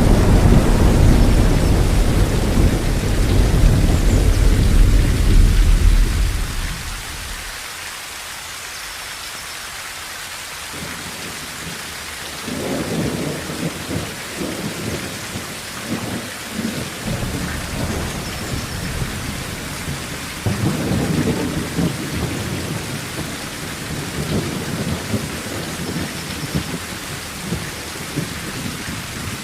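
Steady heavy rain on a tin roof with thunder: a long low rumble fades out about seven seconds in, then two more rolls of thunder rumble through under the rain.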